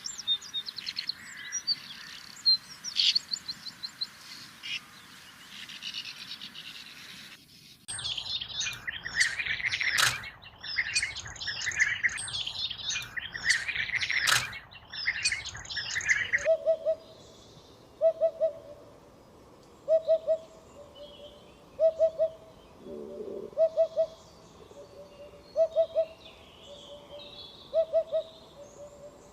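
Sand martins twittering. After a cut about eight seconds in come the loud, dense rolling calls of European bee-eaters. From about halfway, a Eurasian hoopoe calls its low 'oop-oop-oop' in short groups about every two seconds.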